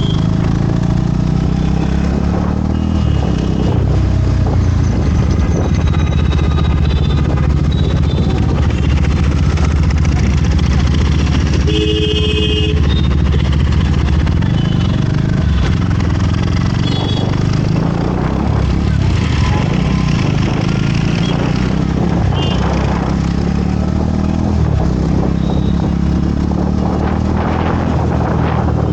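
Motorcycle engine running steadily on the move, its pitch rising and falling a little with the throttle, with road and wind noise. A brief high-pitched tone sounds about twelve seconds in.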